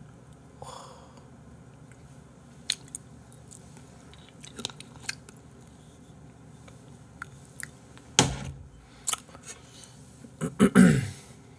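Close-miked chewing of salmon, broken by scattered short clicks of a metal fork against the plate. There is a heavier thump about eight seconds in and a loud cluster of knocks and scrapes near the end.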